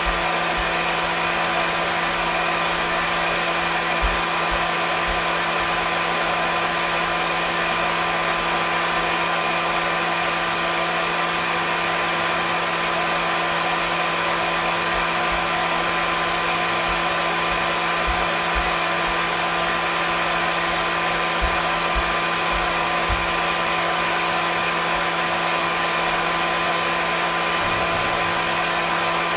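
Hair dryer running steadily: an even rush of blown air with a constant motor hum and whine underneath.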